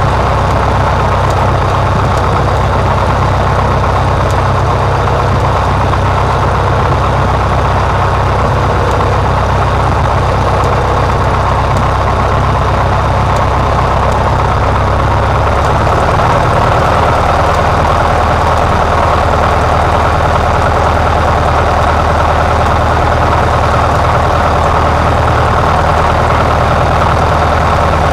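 Cessna 150's four-cylinder Continental O-200 engine and propeller droning steadily, heard from inside the cabin. About halfway through, the engine note shifts slightly and grows a little louder.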